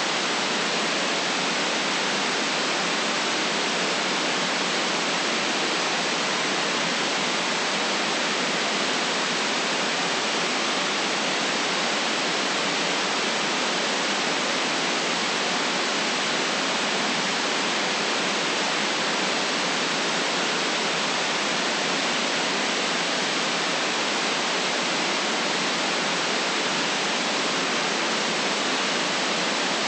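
Steady white noise hiss that never changes, with no deep bass in it.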